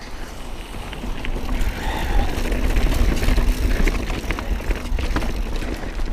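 Mountain bike riding fast over a rocky trail: tyres rolling on rock and the bike rattling with many sharp clicks, over a strong low rumble of wind on the helmet camera's microphone. It builds about a second in and is loudest in the middle.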